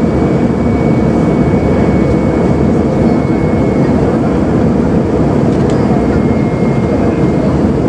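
Airbus A320 cabin noise: a steady, even rumble of the jet engines heard from inside the cabin, with a faint steady high whine.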